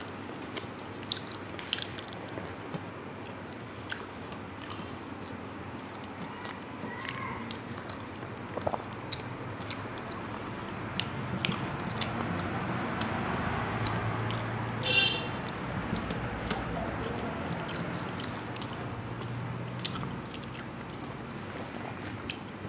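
Close-miked chewing and mouth sounds of a person eating a rice meal: a run of wet smacks and sharp clicks. About two-thirds of the way through comes one brief, high ringing sound, the loudest thing in the stretch.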